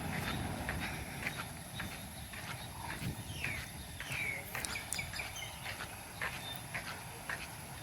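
Footsteps walking on hard ground at about two steps a second. A couple of short falling bird chirps come near the middle, over a steady high-pitched tone.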